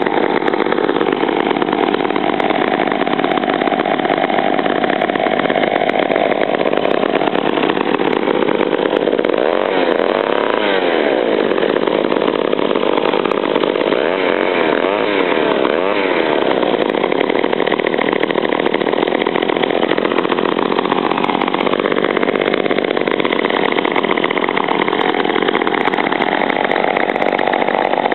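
Vintage McCulloch 35 gear-reduction two-stroke chainsaw engine running at a steady speed, loud and continuous. Its pitch wavers and shifts for a few seconds around the middle.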